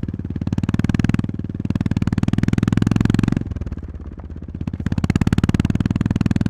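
Honda GB350S single-cylinder engine pulling on the throttle, a fast stream of even exhaust pulses. It eases off about three and a half seconds in and picks up again just before five seconds.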